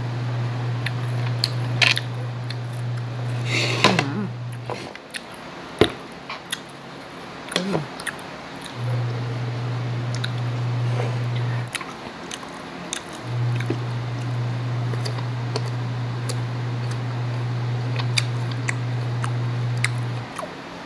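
Chewing and crunching of raw green mango slices, with short crisp clicks scattered throughout. Under it runs a steady low hum, the loudest sound, which cuts out about five seconds in and again around twelve seconds in, returning each time.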